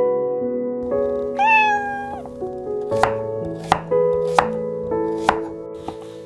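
A cat's single meow about a second and a half in, over gentle sustained background music, followed by four sharp knocks.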